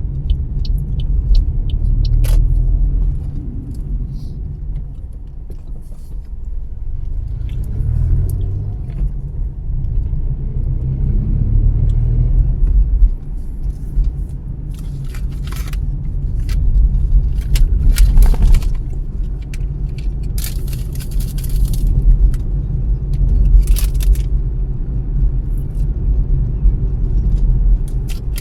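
Car driving along a road: steady low rumble of engine and tyre noise, with scattered short clicks and rattles that come more often in the second half.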